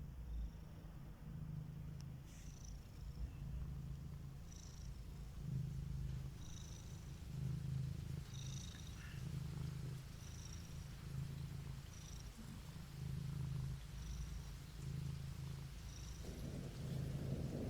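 Cat purring, pulsing about once a second with each breath, with faint high chirps every second or two. A low rumble builds near the end.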